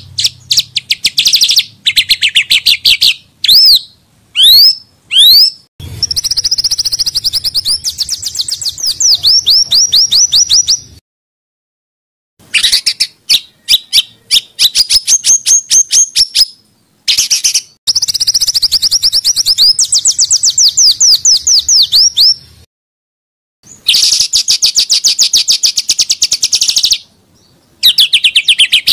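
Small songbirds singing rapid, harsh repeated notes and quick whistled sweeps, high-pitched and loud, in phrases of a few seconds each broken by short pauses of about a second.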